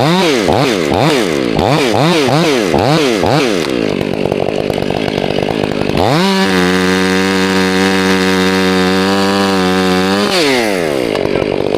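Chainsaw engine blipped in quick bursts of throttle, about two a second, for the first few seconds, then settling briefly. About halfway through it climbs to a steady high-revving pitch, holds it for about four seconds, then drops back toward idle.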